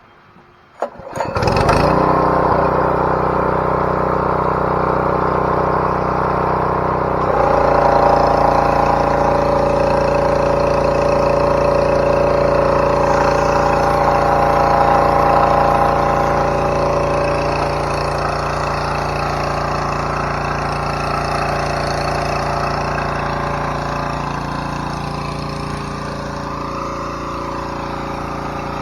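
Pressure washer's small gas engine starting, catching suddenly about a second in, then running steadily; its note changes about seven seconds in.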